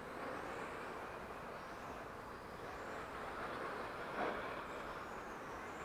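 Electric radio-controlled touring cars lapping a carpet track, among them an Xray T4'21 with a 21.5-turn brushless motor: a faint high motor whine rising and falling over a steady hiss, with a brief louder pass about four seconds in.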